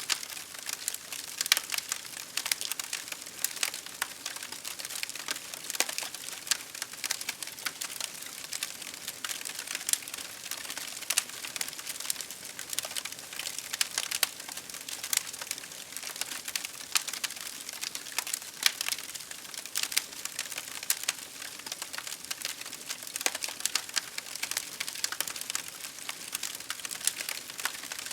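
Campfire crackling: dense, irregular pops and snaps of burning wood over a steady hiss.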